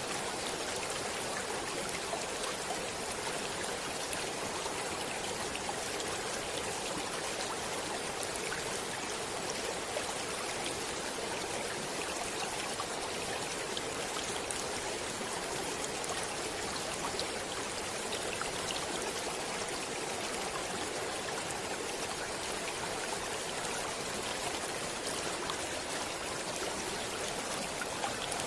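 Stream water flowing steadily, a continuous rushing with small splashes and trickles scattered through it.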